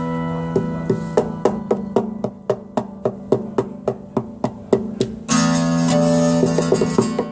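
Instrumental guitar passage: a held chord, then picked notes at a steady pace of about three to four a second, with a fuller strummed chord about five seconds in.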